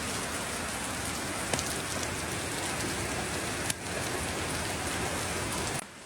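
Heavy rain pouring down steadily, a dense hiss with a few sharp drop ticks. The sound drops off abruptly near the end.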